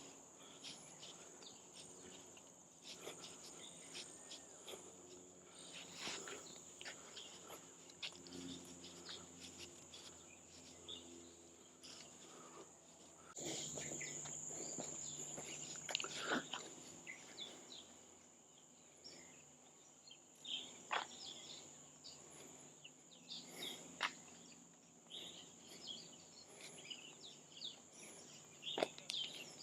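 Faint forest ambience: a steady high-pitched insect drone with scattered soft clicks and knocks. The drone swells louder for a few seconds about halfway through.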